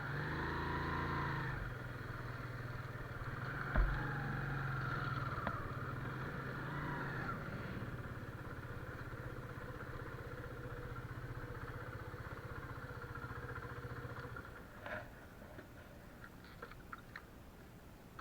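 Motorcycle engine running steadily on the move, with a knock about four seconds in; the engine sound drops away after about fifteen seconds, leaving a few light ticks.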